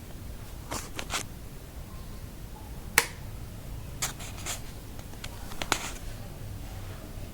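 Sharp clicks and light knocks from handling the electric rice cooker and its plug while it is switched on to test the newly replaced fuse. There is a pair of clicks about a second in, the sharpest click about three seconds in, and a cluster of smaller clicks a little later.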